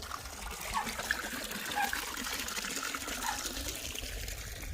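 Mountain stream water trickling and gurgling over rocks in a thin winter flow, steady throughout.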